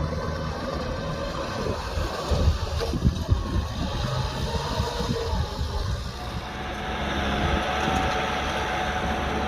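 Kubota M6040SU tractor's diesel engine running steadily, with wind buffeting the microphone. A few heavier knocks come between two and three and a half seconds in.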